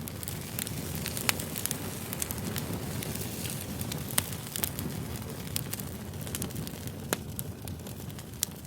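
Campfire burning, with wood crackling and popping in sharp, irregular snaps over a steady low rush of flames.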